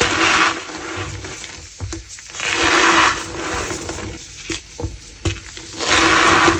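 Soft gym chalk being crushed in three squeezes, each a squeaky crunch like footsteps in snow, with small crackles and snaps between them.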